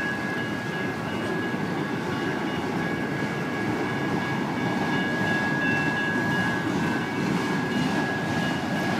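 Freight train of autorack cars rolling through a grade crossing, a dense steady rumble of wheels on rail, while the crossing's electronic warning bells ring on with a steady high tone.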